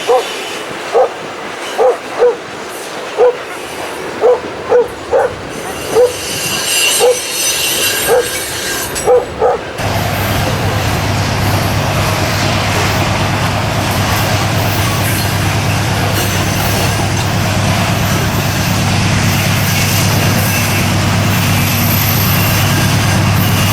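A dog barking repeatedly, about a dozen short barks at uneven intervals, over the passing train. About ten seconds in, the sound cuts abruptly to a steady low vehicle drone.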